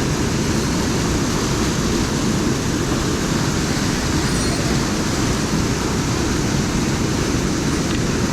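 Steady rush of a fast mountain stream's water over rocks, heavy in the low end.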